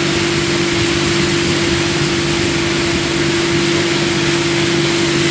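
Motorboat engine running at a steady speed, a constant hum under loud, even rushing noise of wind and water.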